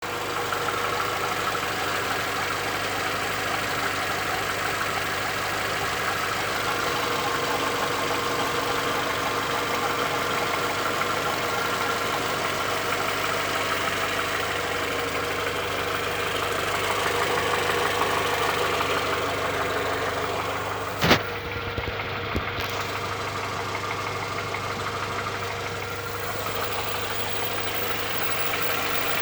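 Audi A4's 1.6-litre ALZ four-cylinder petrol engine idling steadily with a knocking noise from the engine. About three-quarters of the way through there is one sharp click, the loudest sound.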